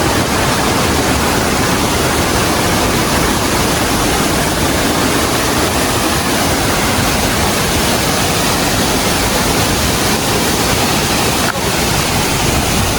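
Waterfall pouring onto rocks at close range: a loud, steady rush of falling water.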